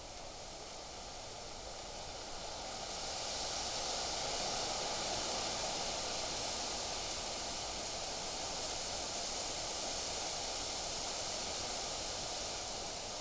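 Wind blowing, a steady rushing noise that swells into a gust about three seconds in and then holds.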